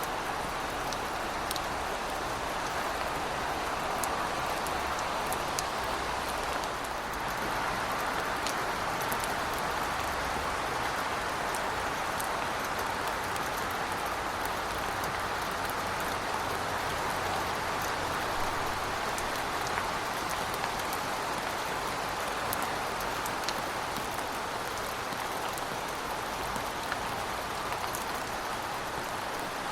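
Heavy rain falling steadily, an even hiss with scattered sharp drip ticks on top.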